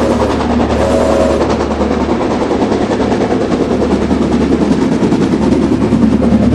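Rail King battery-powered toy train running on its plastic track: a fast, continuous rattle of the small motor, gears and wheels over a steady low hum, with a brief steady tone about a second in.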